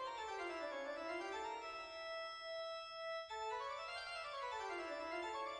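Keyboard music, an organ-like instrument playing quick runs of notes that climb and fall, the run starting over about three seconds in.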